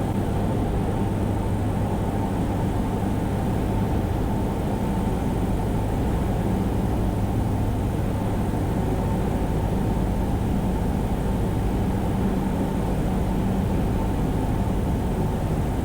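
Cessna 172's piston engine and propeller droning steadily, heard from inside the cockpit on approach with flaps extended.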